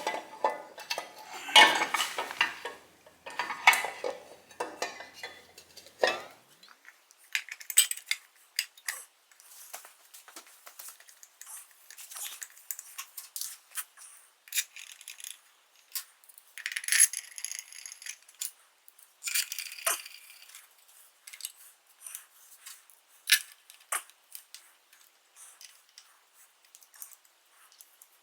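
Hand tools and small metal parts clinking and tapping in short, irregular clicks and knocks, busiest in the first six seconds and sparser after.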